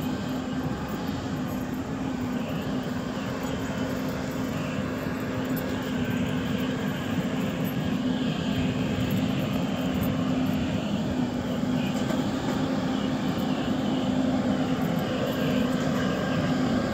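Airboat's aircraft-style engine and air propeller running steadily, a constant droning hum that grows gradually louder.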